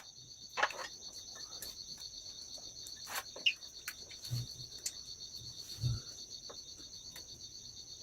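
Insects chirring steadily in a fast, even pulsing trill, with a few light clicks and two soft low thumps in the middle.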